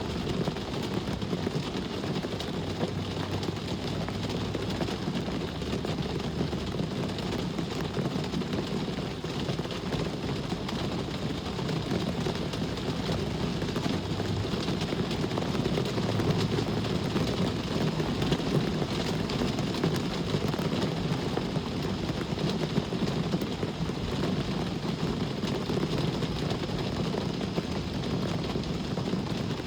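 Rain and road traffic mixed together: a steady low drone of traffic under an even hiss of rain, holding level throughout.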